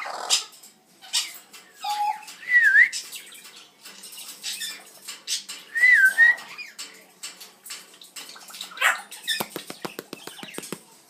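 Amazon parrot vocalizing: short scratchy squawks and clicks, with two whistles that dip and rise again, a little over 2 s in and again about 6 s in. Near the end comes a quick run of about ten clicks in a second.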